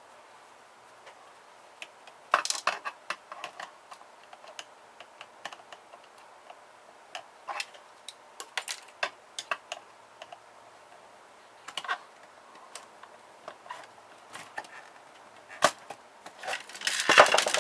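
Scattered light clicks and taps of tools and small plastic and metal printer parts being handled, then near the end a louder burst of cracking and clattering as a part is broken out.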